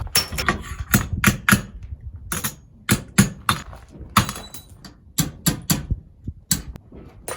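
Hand tools and metal hardware being handled while removing a temporary steering arm: a run of irregular sharp clicks, clinks and knocks, with short pauses around two seconds in and again near the end.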